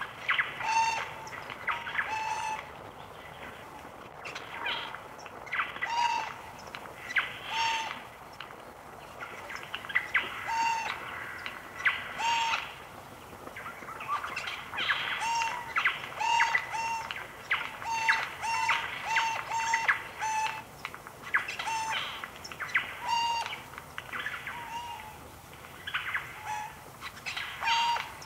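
Jay calling: short, harsh calls repeated every second or two, often in quick pairs.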